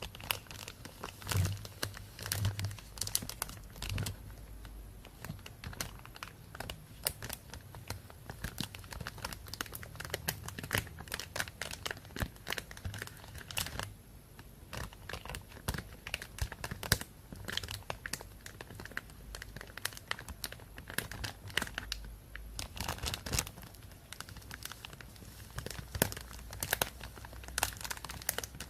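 Thin plastic bag crinkling and rustling as it is handled close to a binaural microphone, in dense, irregular sharp crackles.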